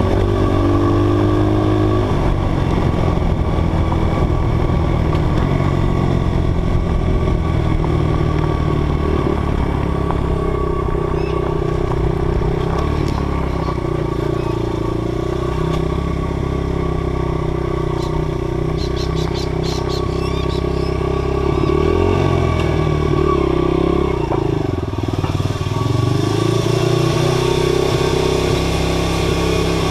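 Dirt bike engine running under way, its pitch rising and falling with the throttle, then easing off and running steadily near the end as the bike comes to a stop.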